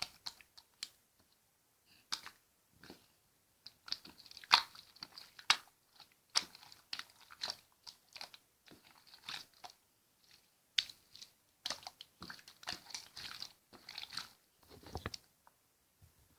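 Slime being squeezed, poked and stretched by hand, making a run of irregular sticky clicks and crackles with a short lull about ten seconds in.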